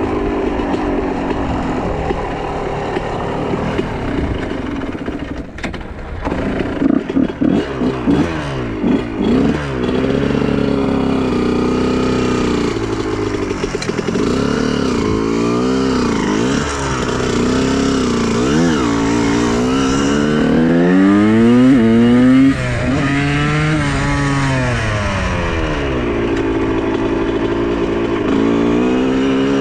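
Honda CR125R two-stroke motocross engine revving under way, its pitch rising and falling again and again as the throttle is worked. A choppy on-off stretch comes about 7 to 9 seconds in, and a long climb to high revs around 22 seconds in cuts off sharply.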